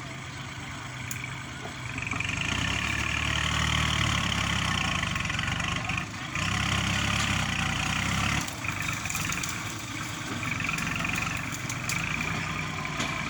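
Kubota tractor's diesel engine running, rising in level about two seconds in as it works harder, with a brief dip near six seconds, then easing back to a lower, unsteady run after about eight and a half seconds.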